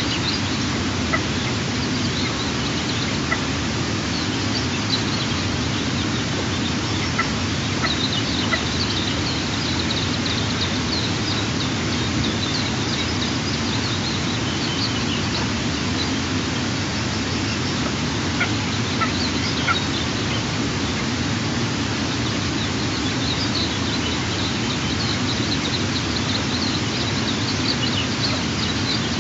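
Steady low rushing background noise with a frequent run of short, high-pitched bird chirps and a few sharp ticks over it.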